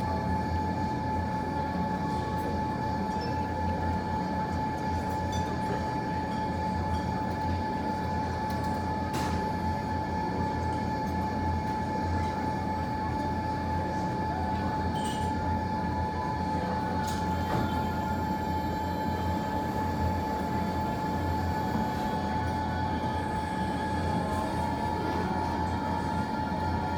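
Steady low rumble with a constant thin whine over it and a few faint isolated snaps, as from a fireplace fire burning in a room with running machinery.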